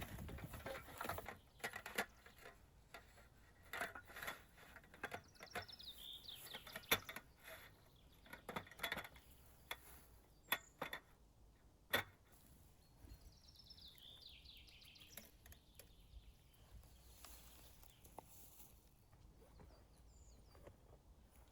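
Scattered sharp knocks and clicks through the first half or so, with a songbird singing a quick descending trill twice, about five seconds in and again about thirteen seconds in, over quiet forest ambience.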